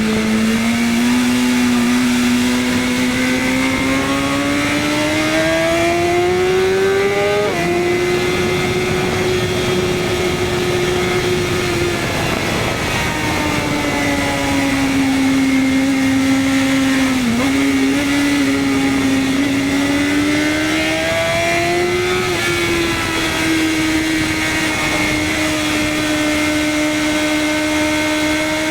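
BMW S1000RR superbike's inline-four engine under way with wind noise: its pitch climbs steadily for several seconds, steps down about seven seconds in as a gear is shifted, falls off around twelve seconds in, climbs again until about twenty-two seconds in, then holds steady.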